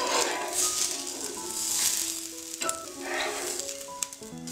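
Wheat dosa sizzling in oil on a hot flat pan, the hiss swelling and fading, with a few short scrapes and clicks of a spatula against the pan as it is slid under and the dosa is flipped near the end. Background music plays throughout.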